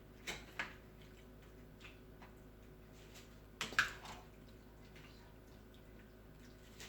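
Meat being mixed with its marinade in a bowl: a few sharp clicks and soft wet sounds, the loudest click a little before the middle, with fainter ticks between.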